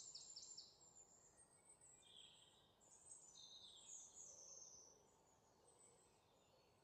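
Near silence with faint birds chirping in a forest ambience: a few short runs of high chirps in the first half, dying away after about five seconds.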